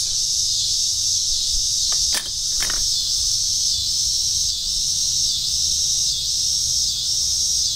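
Cicadas droning steadily, their shrill chorus pulsing every second or so, with two short sharp sounds about two seconds in.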